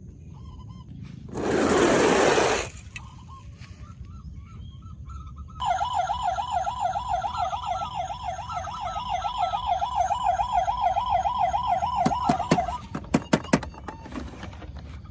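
A toy vehicle's electronic siren giving a fast warbling wail for about seven seconds, starting some five seconds in. Before it comes a loud burst of noise, and a few sharp clicks follow as it stops.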